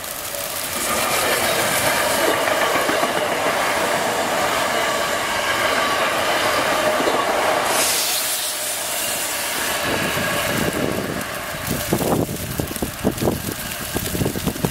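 Electric commuter train running past on snow-covered track: a loud steady rush of wheels and motors that falls away about eight seconds in. It is followed by several seconds of irregular low thumps.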